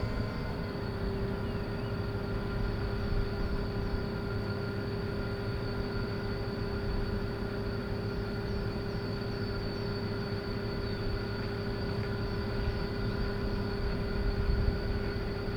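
Steady engine hum with a constant whine on top, holding one pitch throughout with no rise or fall.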